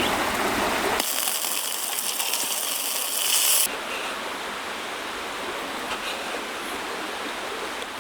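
Eggs and sausages sizzling as they fry. A strong, high hiss about a second in cuts off suddenly, leaving a softer, steady sizzle.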